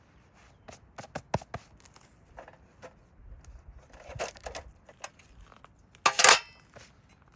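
Objects being handled at close range: a few light clicks and knocks, some rustling, then a short, loud crinkling crush about six seconds in.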